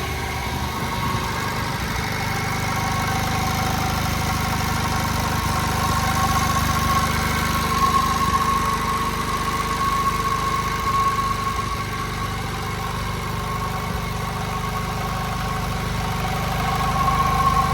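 JAP Model 55 TVO stationary engine running steadily at full speed, driving a 5 kW generator under a light load of about 4 to 5 horsepower, with a steady high tone over the engine's low running.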